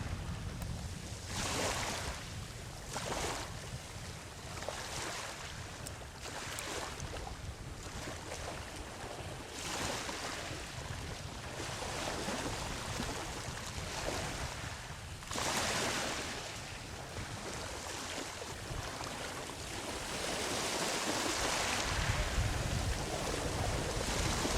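Ocean waves breaking and washing up a sandy beach, a steady surf hiss with swells as each wave comes in, the largest about two-thirds of the way through and a longer, fuller wash near the end. Low wind rumble on the microphone underneath.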